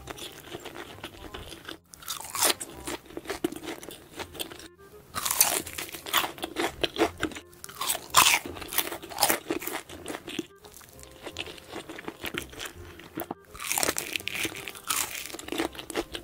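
Close-miked crunching and chewing of crispy fried chicken coated in mentaiko mayonnaise sauce. The crunching comes in runs broken by several abrupt short gaps.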